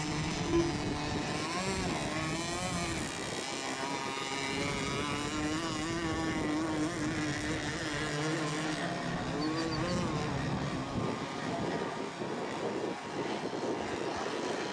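Several radio-controlled racing boats' small engines running at high revs, their pitches rising and falling as they race around the course.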